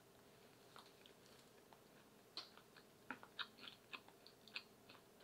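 A person chewing a crunchy-edged homemade oatmeal chocolate chip coconut cookie: faint, irregular crunches, a few at first and coming more often from about halfway through.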